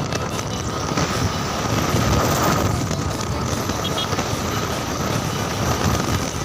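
Motorcycle running at a steady pace on the road, with engine, tyre and wind noise.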